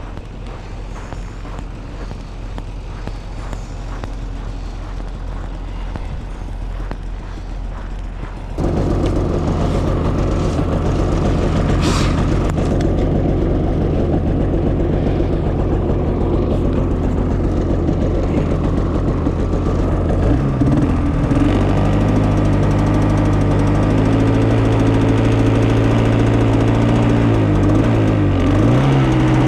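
A vehicle engine comes in suddenly about eight and a half seconds in and runs steadily, with a sharp click a few seconds later; from about twenty seconds in it revs up and down repeatedly.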